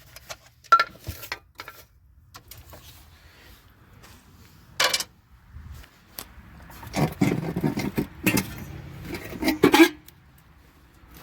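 Hand tools and loose metal parts clinking and clanking against a truck engine as parts are worked off: a few sharp clanks, then a busier run of rattling and knocking toward the end.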